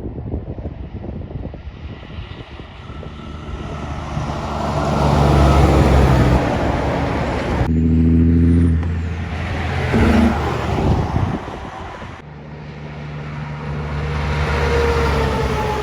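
Kenworth cabover trucks driving past, their diesel engines running with a low, steady drone that swells as each truck nears. The sound changes abruptly twice, about eight and twelve seconds in, where one passing truck gives way to another.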